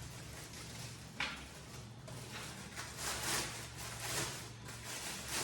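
Unpacking noise: a sharp knock about a second in, then rustling and scraping of packaging as parts are handled and lifted out of the box.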